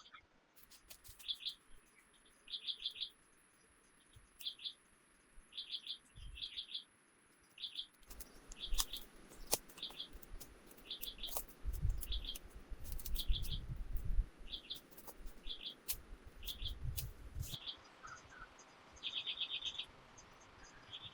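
A songbird chirping in short quick clusters of a few notes, repeated about once a second, over a faint steady high-pitched tone in the first half. Low rumbles come twice in the second half.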